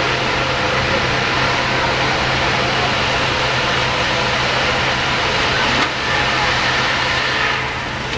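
Steady, loud background noise with a constant low hum, with no distinct event standing out; the level drops a little near the end.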